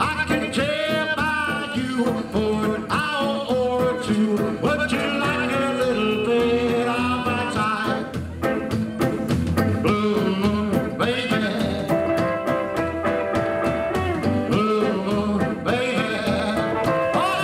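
Live rockabilly band playing: electric guitar lead with bending notes over double bass and drums, in a stretch without sung words.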